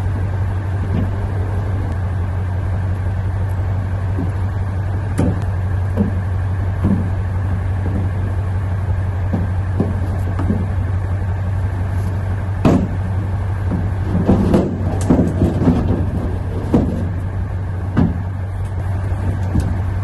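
A steady low machine hum, with scattered knocks and a burst of clatter about two-thirds of the way through as objects are handled and moved in a dumpster.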